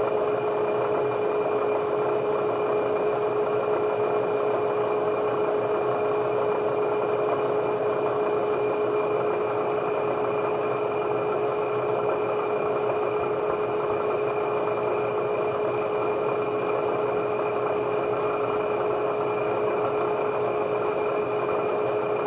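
Machine tool's spindle motor running steadily in low range, a constant hum with one unchanging pitch, as the part is being dialled in to centre.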